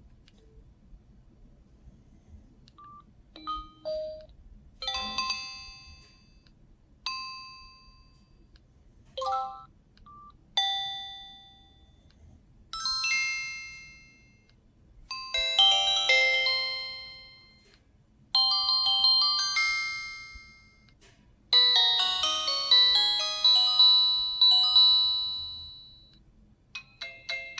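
A Samsung SGH-X506 phone playing its message alert tones through its small speaker, one after another. There are about eight short electronic chime jingles of a second or two each, with brief pauses between. The later ones are longer and fuller, and the last is the longest at about four seconds.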